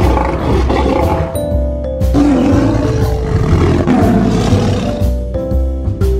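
Lion roars played over children's background music, several roars in a row, with the music's steady notes running underneath.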